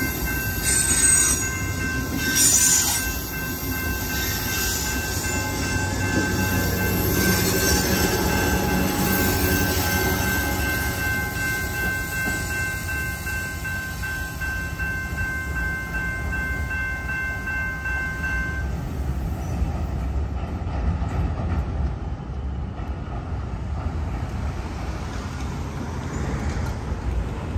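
Amtrak Hiawatha passenger train pulling away and receding, with a few loud wheel clacks over rail joints in the first seconds and then a fading rumble. A steady high ringing, likely the grade-crossing bell, runs alongside it and stops about two-thirds of the way through.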